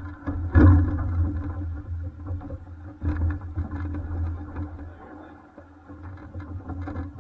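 Jet boat engine running at low speed through shallow water, with a loud surge about half a second in before the level eases off.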